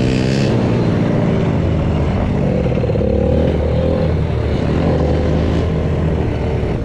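Small engine of a ridden off-road vehicle running at a fairly steady speed, its pitch drifting slightly up and down.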